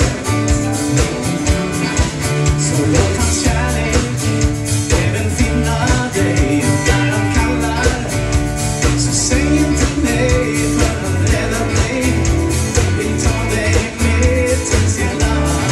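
Live gospel band playing an instrumental break with guitar, bass and drums in a country-rock style, with a steady beat.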